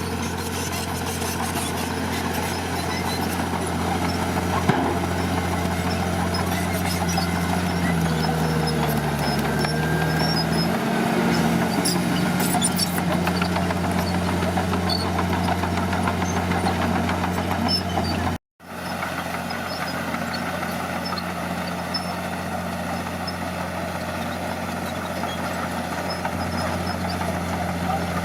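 Heavy earthmoving machine's diesel engine running steadily, its pitch dipping for a few seconds about eight seconds in, then recovering. The sound cuts out for a moment about eighteen seconds in.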